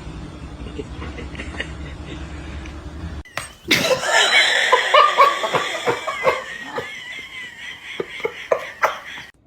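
Low steady rumble for about three seconds, cut off abruptly. Then a person laughs hard in short repeated bursts, with a thin wavering high-pitched sound running through the laughter.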